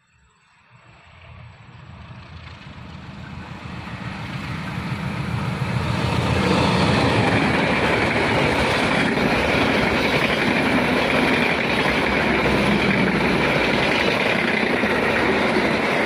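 Locomotive-hauled passenger train approaching, growing steadily louder over about six seconds, then a loud, steady rush of wheels on rail as the locomotive and its long line of coaches pass close by.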